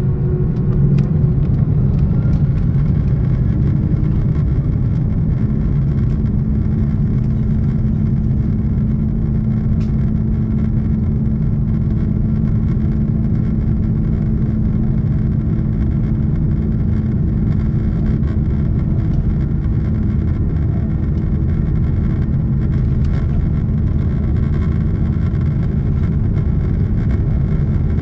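Cabin noise inside an Airbus A330-300 jetliner: its Pratt & Whitney turbofans and the rushing air make a steady, deep rumble with a low hum.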